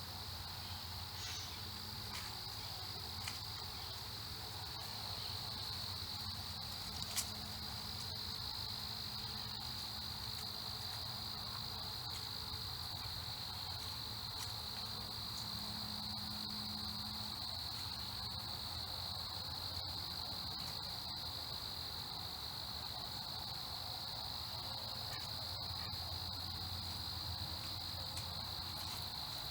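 Insect chorus: a steady, unbroken high-pitched trill. There is a single sharp click about seven seconds in.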